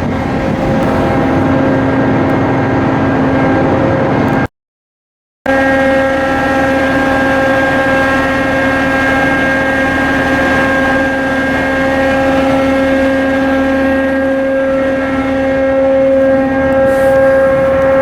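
Diesel engine of a cargo ship running steadily under way, a loud even drone with a constant hum. It cuts to total silence for about a second some four and a half seconds in, then resumes unchanged.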